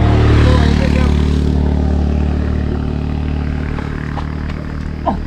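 A motor vehicle's engine running with a steady low hum. It is loudest about half a second in and then slowly fades, as the vehicle moves away.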